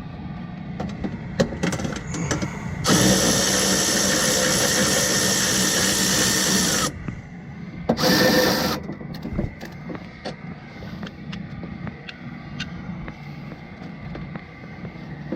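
Hand-held power tool, as used on a nut or bolt, runs steadily for about four seconds, stops, then runs again briefly about a second later, among small metal clicks and knocks of tool work.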